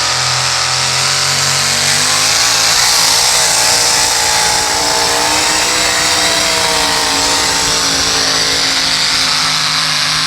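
Pulling vehicle's engine running at full throttle under heavy load while it drags the weight-transfer sled down the track, loud and steady with its pitch shifting about two seconds in.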